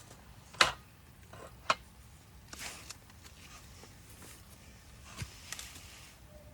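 Wood campfire crackling, with a few sharp pops from the burning wood, the loudest about half a second in, and a couple of brief hisses.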